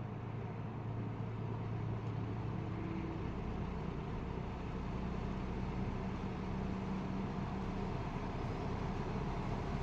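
Late-1960s Eskimo three-speed all-metal box fan running on low speed: a steady rush of air with a low motor hum.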